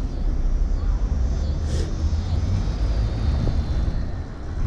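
Wind rushing over the microphone with road noise, a steady low rumble that rises and falls, while riding an electric moped at about 40 mph.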